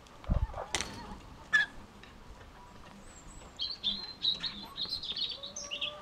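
High-pitched bird chirps in a quick run through the second half. Before them, a low thump and two sharp clicks come in the first couple of seconds.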